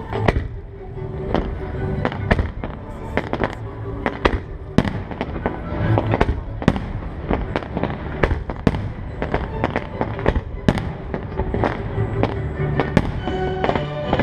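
Aerial fireworks launching and bursting in a rapid, irregular series of sharp bangs, about one or two a second, over the show's accompanying music.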